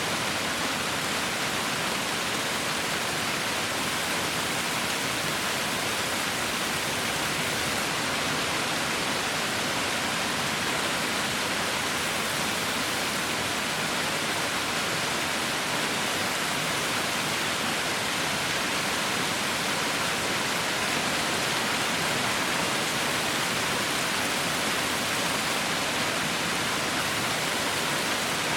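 Heavy rain falling, a dense steady hiss with no distinct drops standing out.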